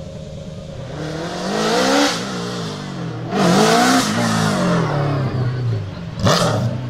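Ford Raptor T1+ Dakar truck's 5.0 V8 engine revving hard twice, the pitch climbing and then falling away each time, with a short sharp blast of revs near the end.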